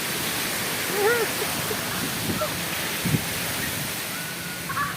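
Strong wind gusting through trees: a steady, loud rushing noise. About a second in there is a short rising-and-falling call, and near three seconds a brief low thud.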